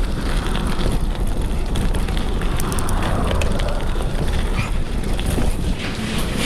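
Wind buffeting the microphone on a moving mountain bike, over the steady rumble of tyres rolling on a dirt trail, with scattered small rattling clicks.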